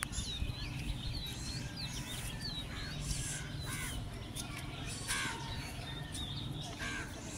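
Birds calling in the trees: a steady run of short, high chirps, with about four harsher, longer calls scattered through.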